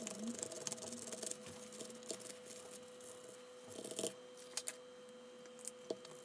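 Small tools and plastic parts being handled while a multimeter is soldered and reassembled: scattered light clicks, taps and scrapes, with a few sharper clicks in the second half, over a faint steady hum.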